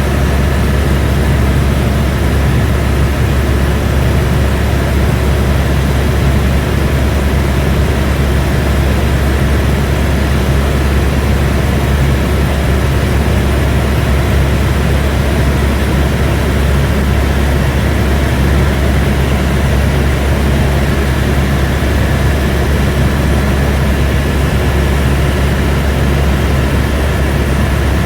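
Airbus AS350 B2 helicopter in flight, heard from inside the cabin: a loud, steady drone of rotor and turbine engine with a thin high whine over it.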